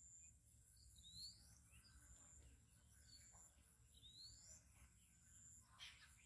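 Very faint ambience: a bird gives two short rising calls about three seconds apart, over a steady faint high-pitched tone and low rumble, with a brief rustle near the end.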